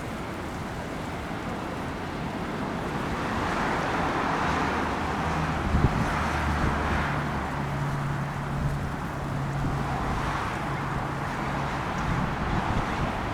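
Road traffic passing in swells, with a low engine hum from a vehicle for several seconds in the middle.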